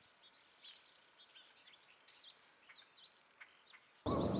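Small birds chirping faintly: repeated short, high calls that sweep downward in pitch, over a soft outdoor hiss. Near the end a sudden loud rush of noise cuts in.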